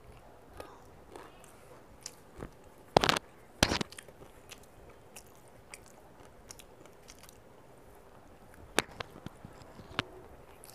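Close-miked eating: a mouthful of fried bitter gourd slices and rice being chewed, with two loud crunches about three seconds in and scattered smaller crunches and clicks afterwards.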